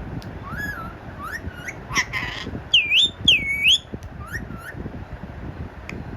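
A pet parrot calling: a string of short squawks, a harsh burst about two seconds in, then two loud whistles that dip and rise again, followed by a few more short calls.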